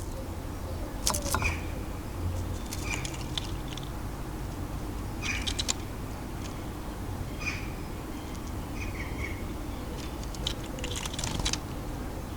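Small garden birds giving short chirps every second or two, mixed with sharp clicks and taps, over a steady low background rumble.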